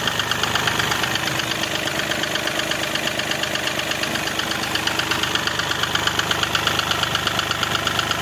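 Mahindra Bolero Power Plus three-cylinder diesel engine idling with a steady, rhythmic knock at about seven beats a second: a noise from inside the engine that came on after it overheated.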